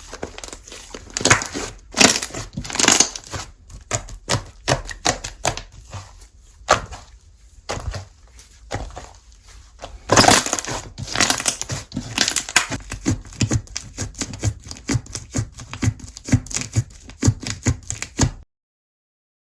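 Slime being squished and stretched by hand, giving rapid, irregular sharp clicks and pops, with the densest flurry about ten seconds in; the sound cuts off suddenly near the end.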